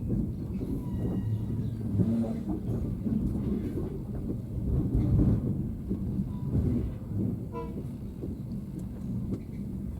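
Low, uneven rumble of a train, swelling about halfway through, with a few faint brief high tones over it.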